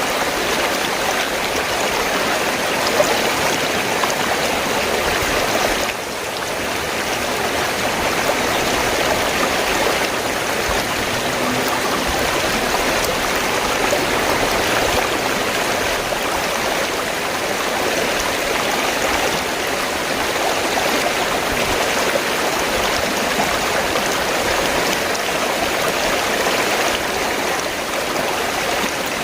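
River water flowing in a steady rushing stream, dipping briefly about six seconds in.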